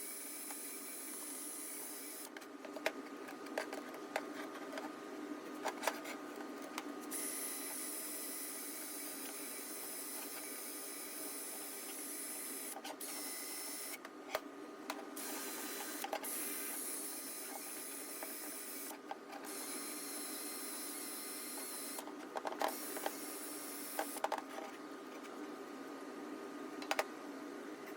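Small electric power tool running steadily while polishing the exhaust pipe of a KTM 65 SX dirt bike: a steady motor whine with scattered clicks and knocks. The high hiss cuts in and out abruptly several times.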